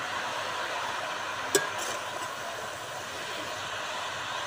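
Mushrooms and potatoes frying in a karahi over a wood fire while a metal spatula stirs them, with one sharp clink of the spatula on the pan about a second and a half in.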